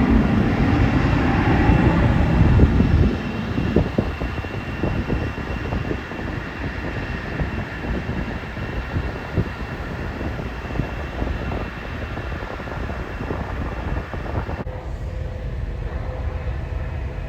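Jet airliner engine noise, a broad rumbling roar that is loudest for about the first three seconds, then drops to a lower, steadier rumble. Near the end the upper hiss cuts off abruptly, leaving a low rumble with a faint steady hum.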